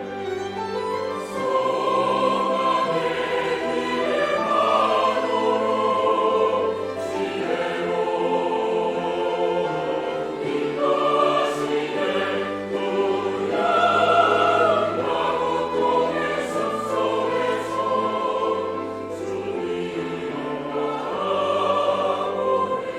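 Church choir singing an anthem in Korean with orchestral accompaniment, sustained chords over a steady bass line.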